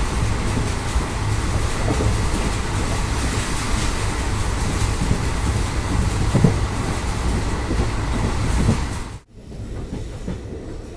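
Passenger train running on the move, heard on board: a steady noise of wheels on the track with a few faint clicks. It drops off suddenly to a much quieter level about nine seconds in.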